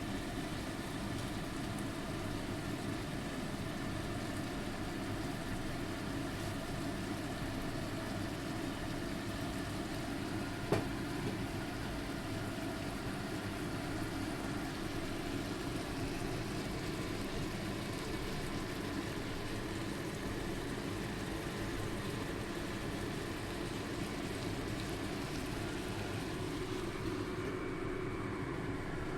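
Steady mechanical hum and hiss, with a single sharp click about eleven seconds in.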